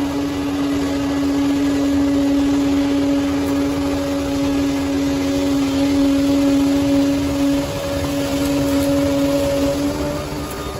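Bulldozer running, with a loud steady drone over its rumble that starts suddenly and cuts off near the end.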